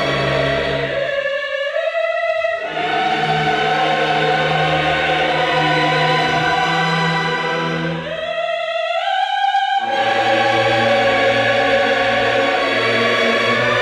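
Closing music: a choir singing slow, sustained classical chords. The low voices drop out twice, while the upper voices rise before the full chord returns.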